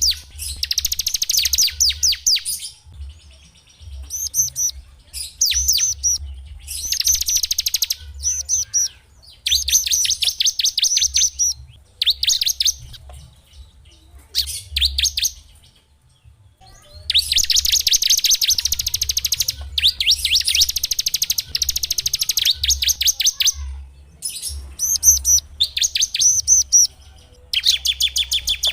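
A small songbird singing in bursts of rapid, high-pitched trills, each a second or two long with short pauses between, over a faint low hum.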